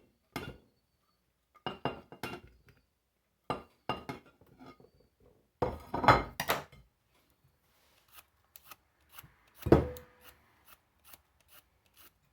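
Cucumber slices and a glass pickle jar being handled during pickle prep: scattered short knocks and clinks, with one louder thump and a brief ring about three-quarters of the way through, then light, evenly spaced knocks about twice a second near the end.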